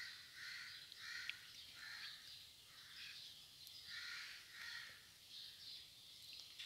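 A bird calling repeatedly, faint and in the background, one or two short calls a second.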